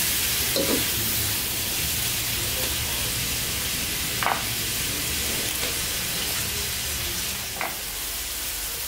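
Sliced onions and dried fish sizzling in hot oil in a large wok, a steady frying hiss with three brief knocks.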